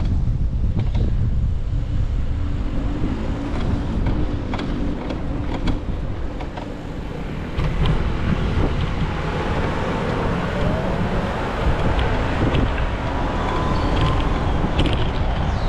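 Wind buffeting the microphone of a camera on a moving bicycle: a steady low rumble with scattered small clicks and knocks. About eight seconds in, a fuller rushing noise joins it.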